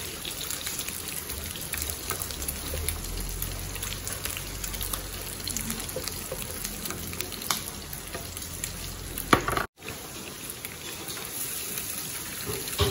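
Bacon and pork embutido sizzling and crackling as they fry in bacon fat in a nonstick pan, stirred now and then. A sharp knock comes about two-thirds through, then the sound briefly drops out, and another knock comes near the end.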